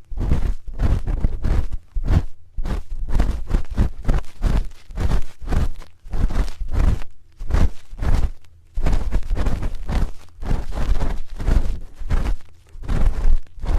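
A spoon scraping and rubbing against an ear microphone in quick, repeated strokes, each with a deep rumble from the contact, grouped in runs with short pauses between them.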